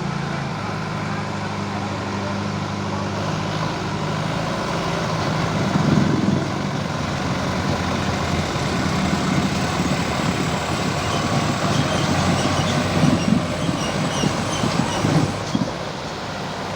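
Diesel tractor engine running hard under heavy load as it strains to pull, with a steady low drone and rougher surges now and then.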